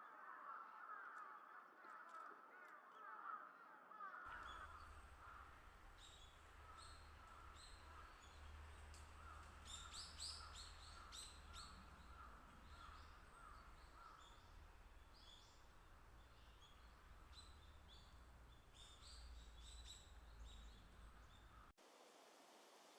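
Faint bird calls: a string of short call notes repeated about twice a second, with scattered high chirps, over low background rumble.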